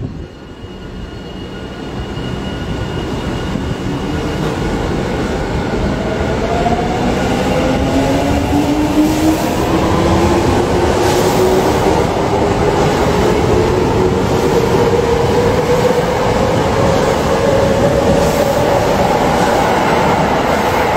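Electric commuter train pulling out of a station. Its motors whine steadily upward in pitch as it speeds up, over a wheel-and-rail running noise that grows louder through the first several seconds and then holds.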